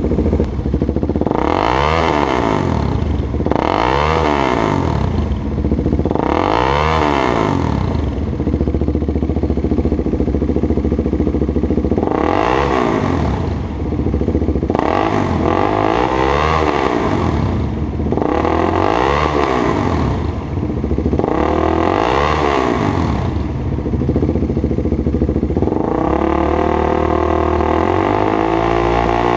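KTM Duke 390's single-cylinder engine breathing through a MotoTorque free-flow exhaust with the baffle (dB killer) removed. It idles, then the throttle is blipped seven times, each a quick rise and fall in revs, and near the end it is held at higher revs that climb again.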